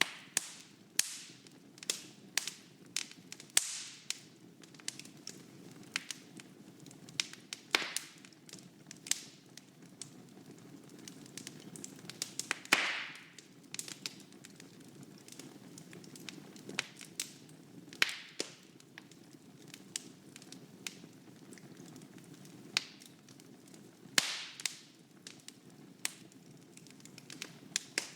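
Wood fire in a fireplace crackling, with irregular sharp pops over a low steady rumble. One louder, longer pop comes about thirteen seconds in.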